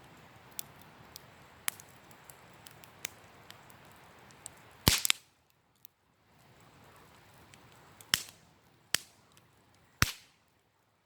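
Wood campfire crackling, with small snaps throughout and loud sharp pops: a cluster about halfway through, then three more about a second apart near the end.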